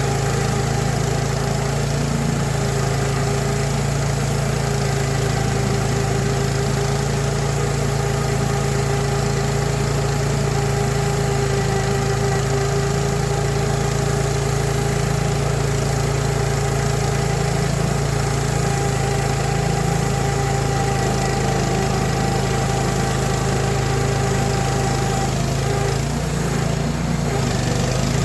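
Sawmill engine running steadily, with a steady whine over it that fades out near the end.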